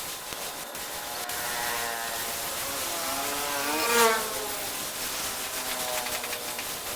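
A small motor running over a steady hiss, its pitch shifting and rising to a loud peak about four seconds in, then easing off.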